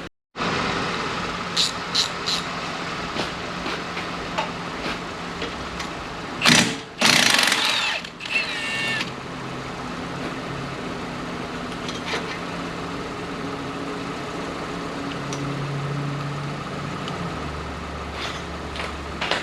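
A cordless impact wrench gives a short burst about six and a half seconds in, then runs for about a second, loosening the 18 mm nut on a front strut. A few clicks of tool handling come early, over a steady background hum.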